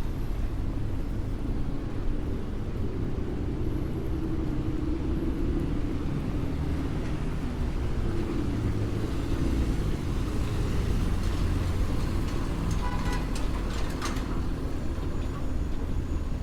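Street traffic on a rainy city road: a steady low rumble of passing motor vehicles, with a short run of sharp clicks near the end.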